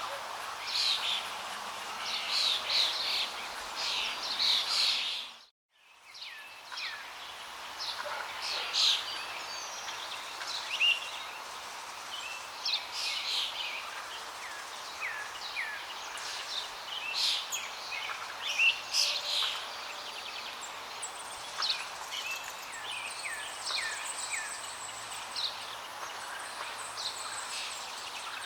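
Small birds chirping and calling, many short notes over a steady rushing hiss of flowing water. The sound drops out briefly about five and a half seconds in, then the birds and water resume.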